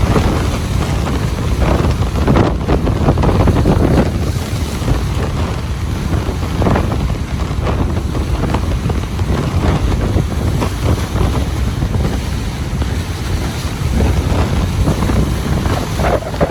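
Ocean waves breaking and washing on a beach, with wind buffeting the microphone and a strong low rumble.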